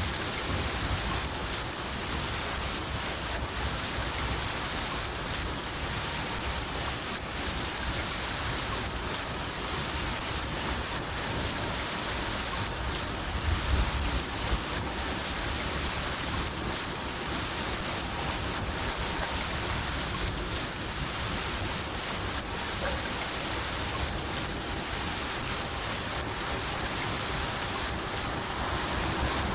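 A cricket chirping steadily at about three high chirps a second, pausing briefly about a second in and again around six seconds in, over the steady hiss of falling rain.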